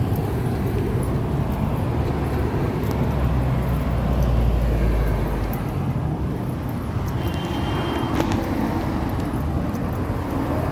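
Road traffic: a steady low rumble that swells for a couple of seconds about four seconds in, as a vehicle passes.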